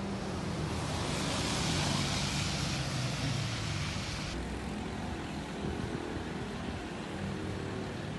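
Street noise with a vehicle's engine running under a steady hiss. A brighter hiss lasts from about one second in to about four seconds in, then cuts off abruptly.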